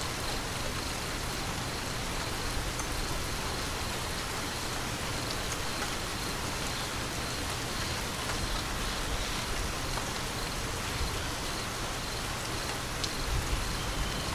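Steady rain falling and pattering on surfaces. Near the end a low rumble of thunder begins to build.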